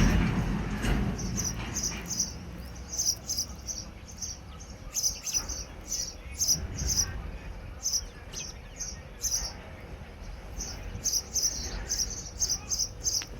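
Small birds chirping over and over in short, high-pitched notes at an uneven pace, several a second at times. A low rumble fades out in the first couple of seconds.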